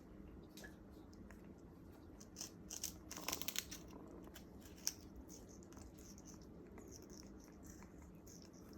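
African grey parrot chewing and tearing at a piece of sugarcane with its beak: faint crackling, a cluster of louder crunches about three seconds in, and a single sharp click about five seconds in.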